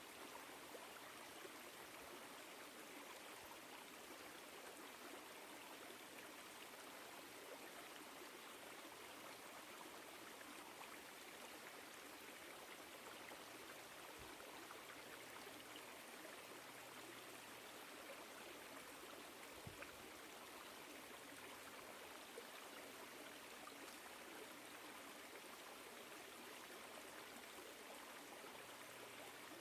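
Woodland stream flowing, a faint, steady babble of water.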